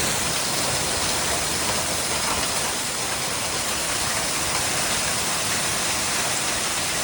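Storm with heavy rain and wind: a steady, loud rushing hiss that does not let up.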